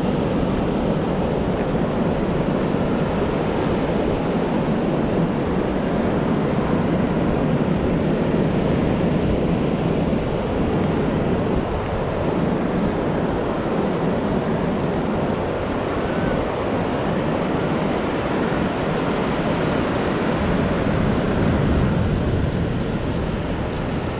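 Ocean surf washing onto a sandy beach, a steady roar of breaking waves, with wind rumbling on the microphone.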